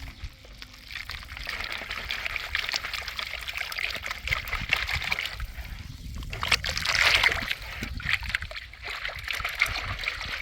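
Water pouring and splashing, a steady hissing trickle that swells about two-thirds of the way through.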